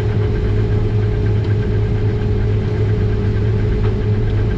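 Combine harvester running steadily, heard from inside the cab as a constant drone with a steady hum.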